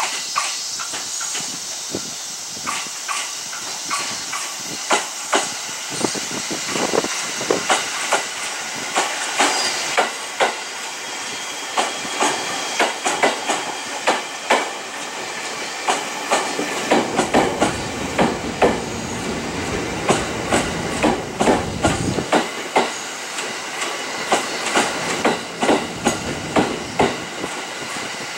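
Tokaido Line commuter electric multiple-unit train running in along the platform, its wheels clicking rapidly over the rails, with a low rumble swelling for several seconds about two-thirds of the way through as the cars pass close by.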